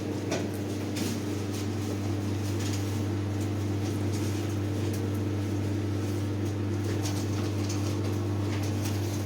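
Steady low mechanical hum, with faint scattered clicks and knocks over it.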